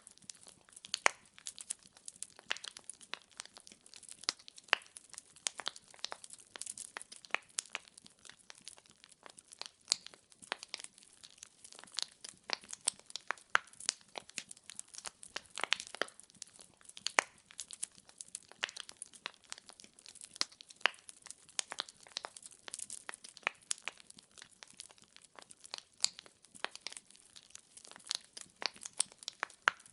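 Wood fire burning in a fireplace: a steady stream of irregular crackles and sharp pops as the logs snap, over a faint hiss.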